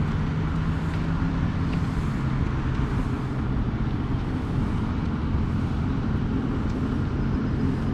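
Steady road traffic: cars running by with a constant low engine hum.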